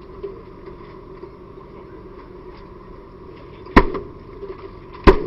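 Two loud, sharp strikes a little over a second apart near the end, over a steady hum. They are a hand tool hitting a door as firefighters force entry.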